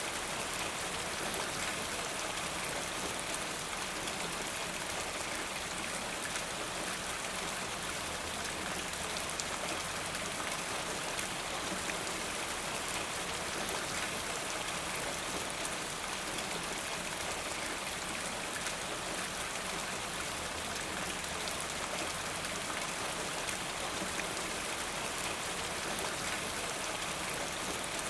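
Steady rain falling, a continuous even patter of drops.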